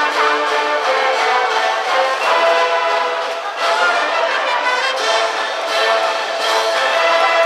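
School brass band playing a baseball cheering tune, with sustained brass notes throughout.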